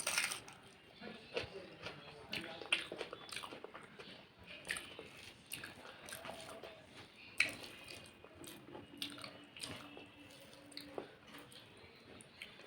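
A person eating rice, chicken curry and roti close to the microphone: irregular wet chewing, smacking and biting sounds with sharp clicks, the loudest right at the start and again about halfway through.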